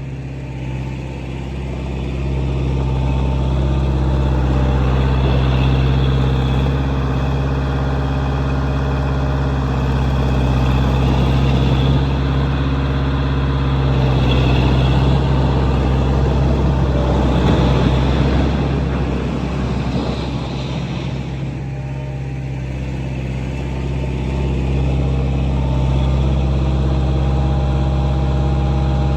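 Swinger 3000 compact wheel loader's four-cylinder John Deere engine running steadily. The engine gets louder about two seconds in, eases off briefly about three-quarters of the way through, then picks up again.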